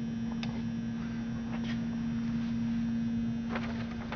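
Steady low electrical hum at one pitch, with a few faint soft clicks.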